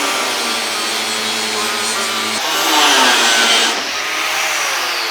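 A power tool running, with a coarse rubbing or cutting noise; its sound shifts about two and a half seconds in and again near four seconds.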